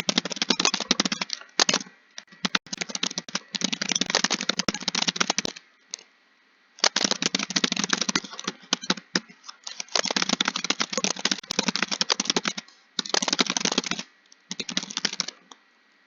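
Fast typing on a computer keyboard: runs of rapid key clicks broken by short pauses, stopping near the end.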